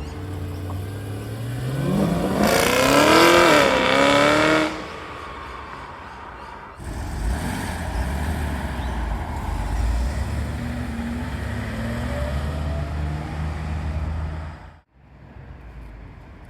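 A car's engine revs and accelerates away, its pitch climbing to a loud peak over about two seconds before fading. After a sudden cut, another car's engine runs with a low, steady rumble for several seconds, then the sound cuts abruptly to quieter background near the end.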